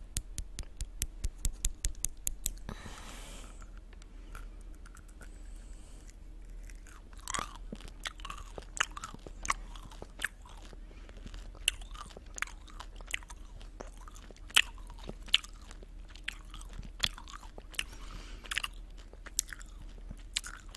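Close-miked chewing of a crunchy snack. A quick, even run of crunches opens it, a short soft rustle comes about three seconds in, then scattered crunches and chewing follow.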